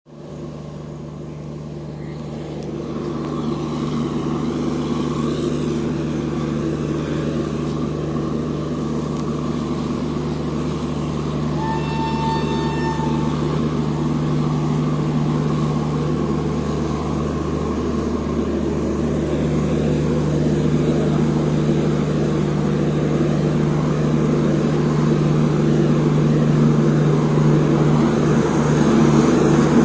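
Train locomotive running with a steady, deep machine hum that grows louder as it comes close, with a short horn blast about twelve seconds in.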